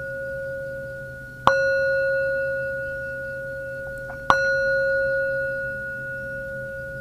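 A metal singing bowl struck twice, about a second and a half in and again past the four-second mark. Each strike rings on with a clear low tone and a higher overtone, fading slowly until the next strike.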